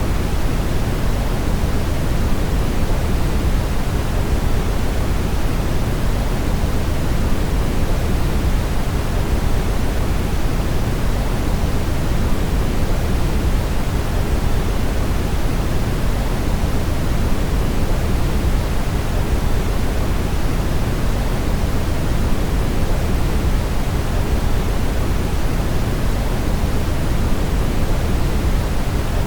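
Brown noise: a steady, unchanging rushing noise, deep and heavy in the low end and thinning out toward the highs.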